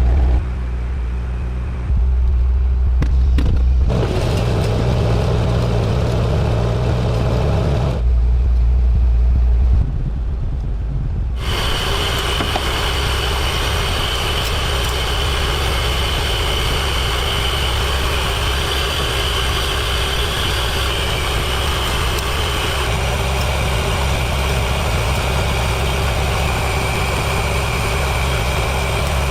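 An engine running. The first ten seconds or so are several short segments with abrupt cuts between them, some with a strong low hum. After that it runs steadily, with a faint high whine over it.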